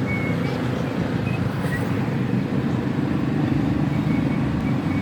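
Honda Fit's four-cylinder engine idling steadily, an even low rumble.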